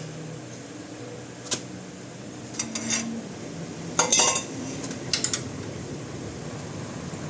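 Metal hand tools clinking and clattering against metal in four short separate bursts, the loudest about four seconds in, over a steady low hum.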